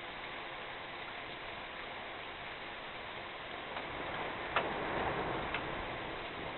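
Rain falling during a thunderstorm, a steady hiss that gets heavier about four seconds in, with a few sharp ticks of drops hitting nearby.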